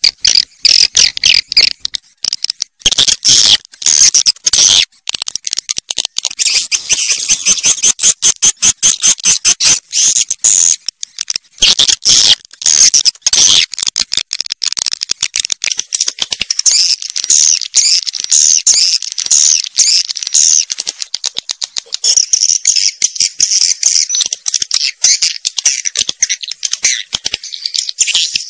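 Swiftlet calls, the 'suara walet' lure track played to draw swiftlets into nesting houses: a dense, fast twittering of high clicks and chirps. Runs of shriller squeaky chirps thicken in the second half.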